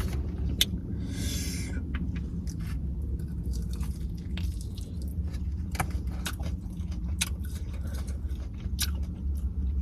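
Person biting and chewing a Dorito-crusted chicken wing: scattered crunches and mouth clicks over a steady low hum, with a brief rustle about a second in.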